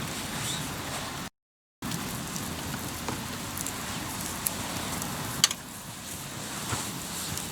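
Hardwood campfire crackling: a steady hiss with a few sharp pops, the loudest about five seconds in. The sound cuts out completely for a moment about a second in.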